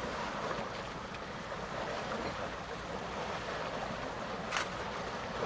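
Steady wind and water noise on the river, with one short sharp click about four and a half seconds in.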